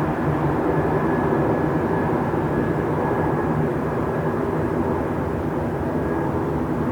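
Train station ambience: a steady low rumble of machinery and noise, with a faint thin high tone held through most of it.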